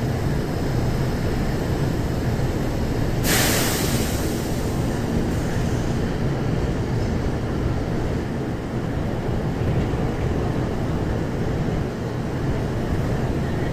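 JR Central 313 series electric train with a steady low rumble, and a short, sharp hiss of air about three seconds in.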